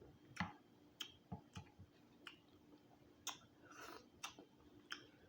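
Faint, scattered sharp clicks and crackles of eating a boiled Dungeness crab, with a short rustly crackle a little past halfway.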